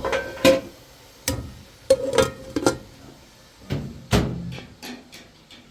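A series of irregular sharp knocks and clanks, about six, some ringing briefly like struck metal, with the loudest strike just past four seconds in.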